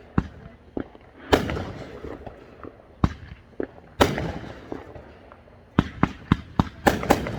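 Aerial fireworks going off: a couple of loud shell bursts with long rolling echoes, a few smaller cracks between them, then a quick run of sharp crackling reports near the end.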